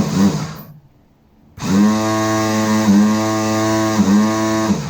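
Motor-driven generator rig running with a steady electric hum. It cuts out about half a second in, is silent for about a second, then starts up again with a brief pitch dip before settling, dipping once or twice more.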